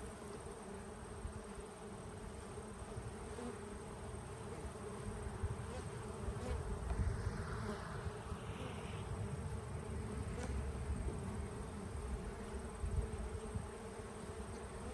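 Honeybees buzzing steadily around an open hive, a continuous drone over a low rumble; the colony is getting stirred up by the hive being worked.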